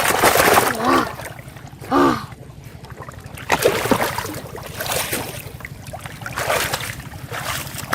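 Water splashing and sloshing in irregular bursts over a steady rumble of wind on the microphone, with two short voice-like calls about one and two seconds in.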